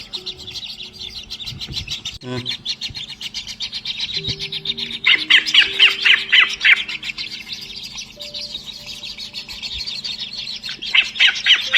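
White-throated kingfisher nestlings chirping in fast strings of short, high calls, loudest in bursts about five seconds in and again near the end.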